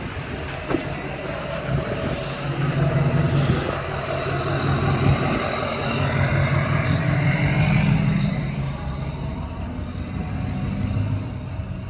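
A vehicle engine running as the vehicle moves about, swelling loudest about three and eight seconds in, then easing off.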